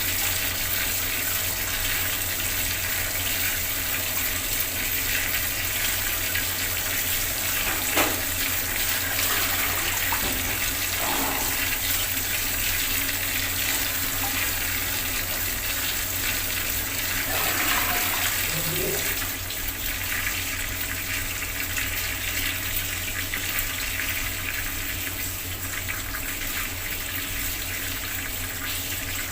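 Bathroom tap running steadily, water splashing into the basin. There is a single sharp click about eight seconds in.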